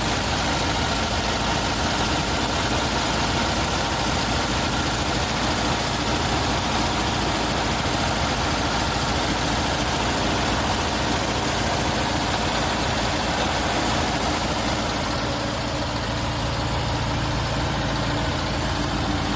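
VW single-cab pickup's air-cooled flat-four engine idling steadily on a carburetor that the owner doubts is jetted for this engine. Its low note becomes steadier near the end.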